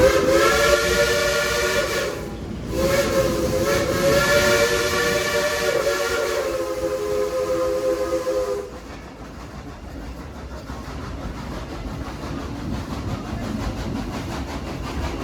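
Steam whistle of Baldwin steam locomotive #70 sounding a chord of several tones: a blast of about two seconds, a brief break, then a longer blast of about six seconds that stops abruptly. The steady running noise of the train rolling along follows.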